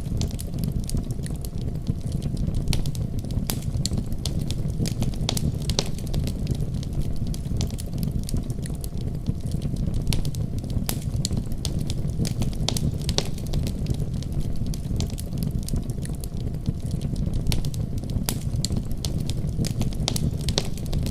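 Wood fire burning in a fireplace: a steady low rumble of flames with irregular sharp pops and crackles of burning logs.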